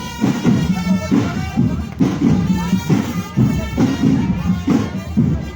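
Marching drum band playing: drums beat a steady rhythm under a pitched melody.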